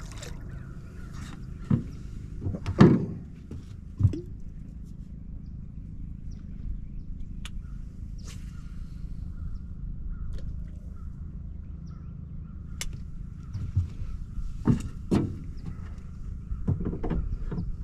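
A few sharp knocks and thumps over a steady low rumble, with a faint steady tone coming in about halfway through.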